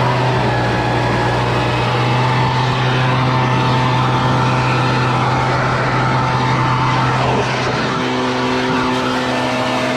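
Small petrol engine running steadily at high speed, with a slight drop in level and a shift in pitch about seven and a half seconds in.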